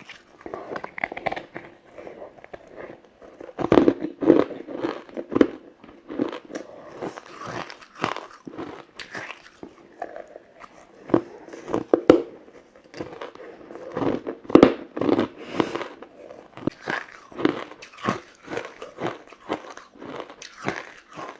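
Frozen matcha ice being bitten and chewed: an irregular run of sharp crunches and cracks, a few a second.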